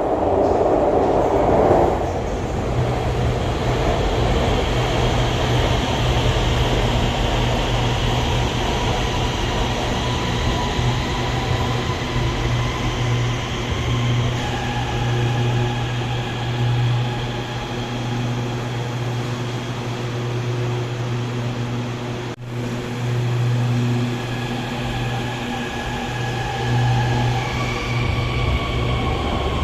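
Guangzhou Metro Line 21 train running at the station: a steady low hum with several thin electric motor whines that shift slightly in pitch, broken by a sudden cut about two-thirds of the way through.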